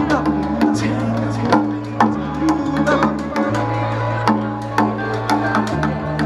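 Live bluegrass band playing an instrumental passage: a bass line walking from note to note under steady picked and strummed acoustic strings.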